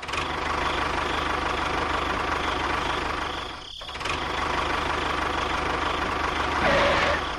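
A small engine running steadily, dipping briefly a little past halfway and surging louder just before the end.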